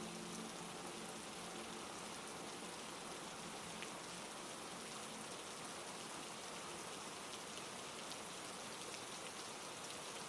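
Heavy rain falling steadily, an even hiss of dense drops.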